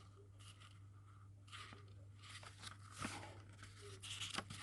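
Faint rustling and a few light clicks of a paper book's pages being handled and turned, over a low steady hum.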